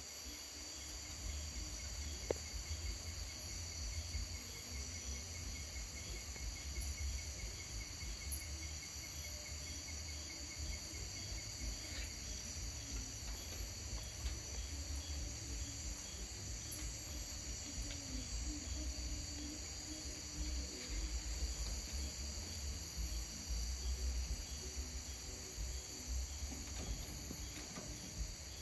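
Steady chorus of crickets trilling high and continuously, with a fainter pulsed chirping for the first several seconds, over a low rumble.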